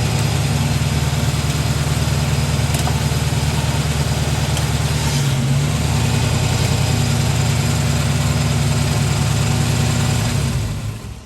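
Jeep CJ7's engine idling steadily, then switched off near the end, its sound dying away over about a second.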